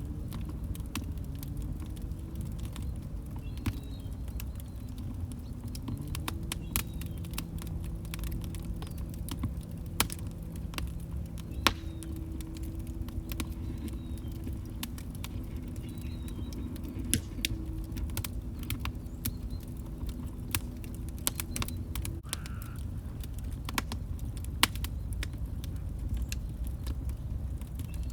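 Log fire crackling: irregular sharp pops and snaps over a steady low rumble of burning wood, with a faint low humming tone that wavers, holds steady, then cuts off about 22 seconds in.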